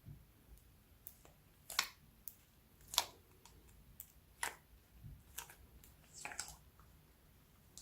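Slime being squeezed and kneaded by hand, giving sharp clicks and pops of trapped air at irregular intervals, several in all.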